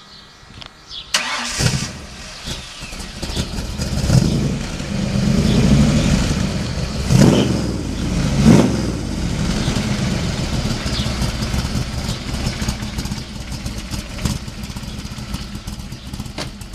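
Superformance Cobra's V8 starting: it catches with a sudden burst about a second in, is revved several times, with the sharpest blips around seven and eight and a half seconds, then settles to a steady idle through its side-exit exhaust pipes.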